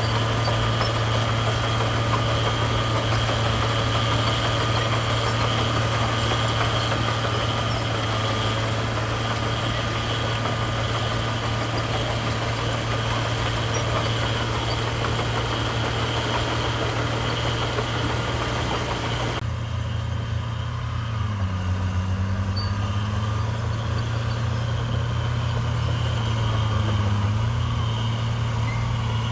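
Heavy diesel engine of earthmoving machinery running steadily with a deep hum. About two-thirds through the sound turns abruptly duller, and the engine's pitch sags for several seconds before coming back up.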